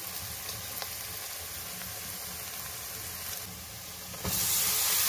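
Chopped onion, garlic, green chilli and ground spices sizzling in hot oil in a pan, stirred with a metal spatula, with a faint scrape about a second in. Near the end the sizzle jumps suddenly to a much louder hiss as chopped fenugreek leaves go into the oil.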